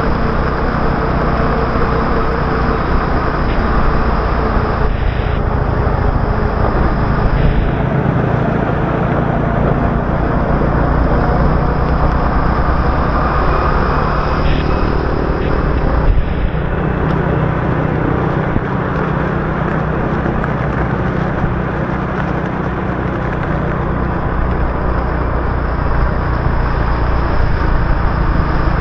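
Motorbike riding through city traffic on a wet road: the bike's engine runs steadily under a constant haze of road and traffic noise.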